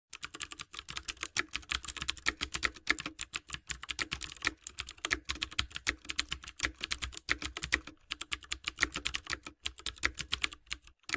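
Rapid, irregular clicking of computer-keyboard typing, many keystrokes a second with brief pauses, tapering off at the end.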